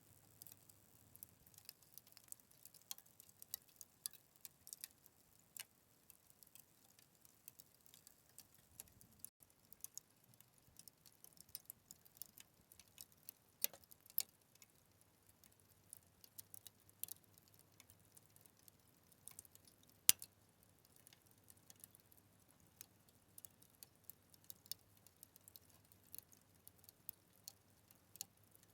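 Wood fire crackling: irregular small pops and snaps over a faint hiss, with one louder pop about two-thirds of the way through.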